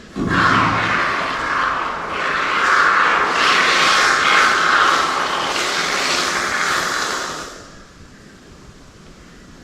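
Aerosol can of expanding spray foam hissing steadily as foam is sprayed into gaps, for about seven and a half seconds before it stops.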